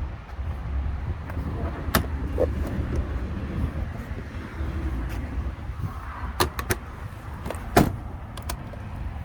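Several sharp clicks and knocks, the loudest about eight seconds in, over a steady low rumble.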